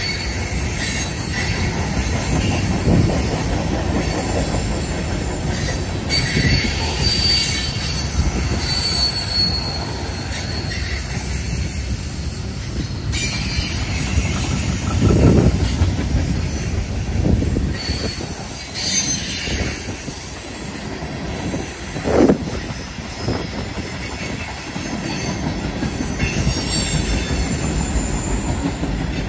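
Freight train cars (tank cars and lumber flatcars) rolling past on a curve: a continuous rumble of steel wheels on rail, with high-pitched wheel squeal coming and going from the curve. Two louder thumps stand out, about halfway through and again about two-thirds through.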